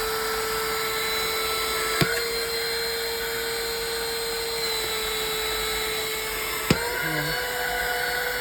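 Rechargeable handheld car vacuum cleaner running, a steady high motor whine. Two sharp clicks, about two seconds in and near the end, each with a brief shift in the pitch.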